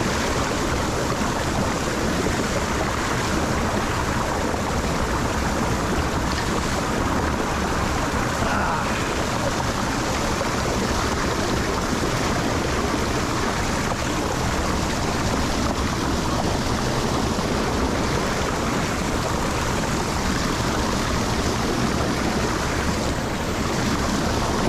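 Water pouring steadily into a lake drain from both sides, a constant rushing with no letup.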